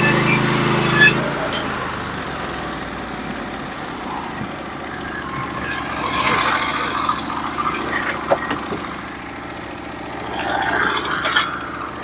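A Norwood HD36v2 portable band sawmill's engine running steadily under power, then cutting back sharply with a click about a second in, its tone dropping away. Irregular clatter and scraping follow, with a couple of knocks.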